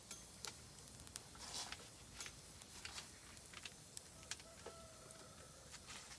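Oak firewood burning in a small camp fire pit, crackling with irregular sharp pops and snaps, about two or three a second.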